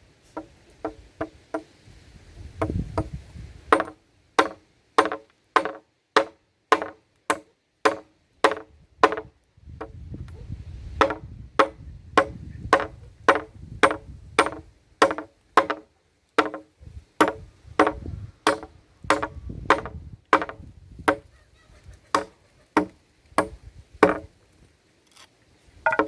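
Repeated chopping with a blade, sharp strokes at about two a second with a couple of short pauses.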